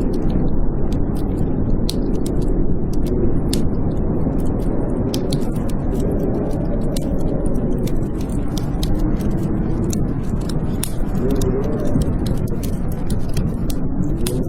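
Blizzard wind howling, its pitch wavering slowly up and down over a steady low noise, with a fireplace crackling: many scattered sharp pops and clicks.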